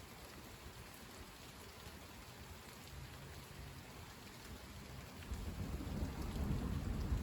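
Steady rain falling, with a low rumble of thunder starting about five seconds in and growing louder.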